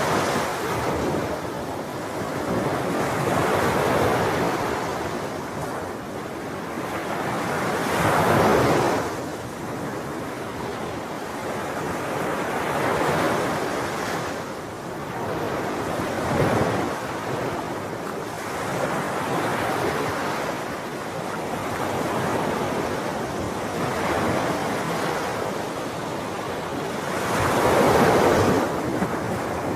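Sea waves breaking and washing in, the surf swelling and falling away every few seconds, with the biggest surges about a third of the way in and near the end.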